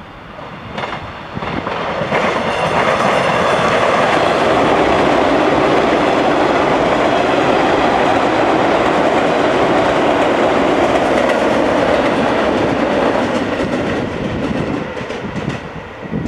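JR Kyushu 415 series electric multiple unit running past close by. The noise builds over the first two seconds, holds loud for about ten seconds, then fades from about thirteen seconds in as the train draws away.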